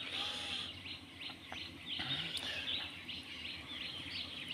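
Small birds chirping: a steady run of short, high chirps, several a second, over faint outdoor background noise.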